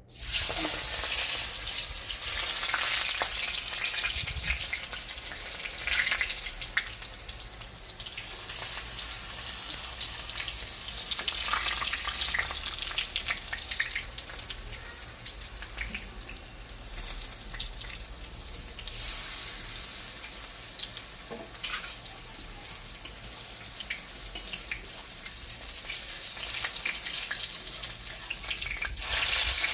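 Close-up crunching of crispy water spinach (kalam saag) pakoda fritters being chewed, a dense run of crackles and crunches.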